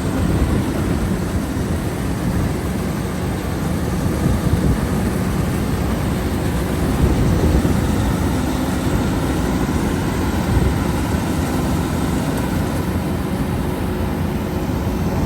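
Rice combine harvester engine running steadily at working speed, a constant mechanical drone.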